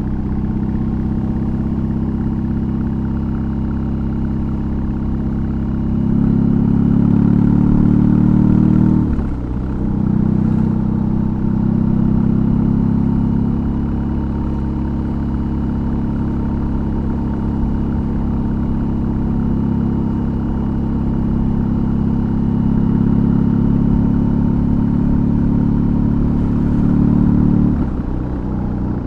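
BMW R18's big air/oil-cooled boxer twin, fitted with an aftermarket exhaust, running under way. It pulls harder from about six seconds in, briefly dips near nine seconds as in a gear change, settles into a steady cruise, then drops off near the end as the throttle closes.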